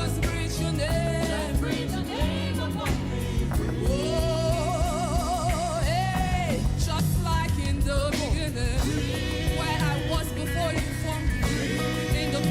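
Gospel worship music: a singer holds long notes with a wavering, vibrato pitch over piano and a steady bass line.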